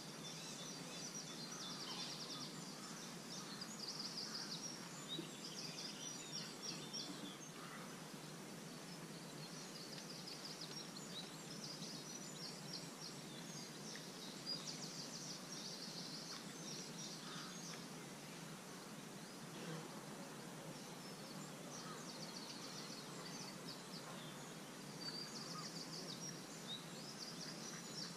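Small birds singing, with repeated short chirps and trills coming and going throughout, faint over a steady outdoor background hush.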